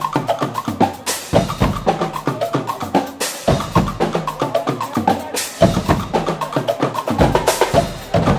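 Guggenmusik band playing a fast, loud drum-driven passage: dense snare and bass drum strokes, with a cymbal crash about every two seconds, four in all.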